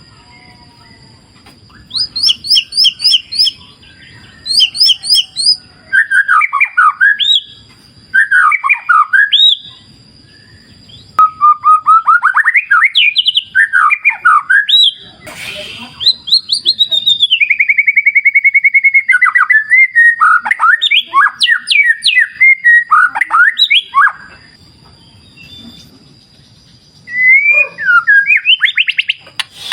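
White-rumped shama (murai batu) singing: loud, varied whistled phrases with sweeping pitch, separated by short pauses, with a long rapid trill about midway. A steady thin high tone runs behind the song.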